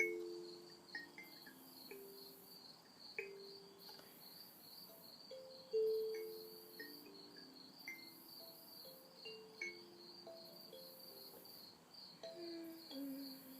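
Night insects chirping in a steady, fast pulsing rhythm, with soft ambient music: slow low notes, sometimes two at once, each struck and then fading, plus a few light high plinks.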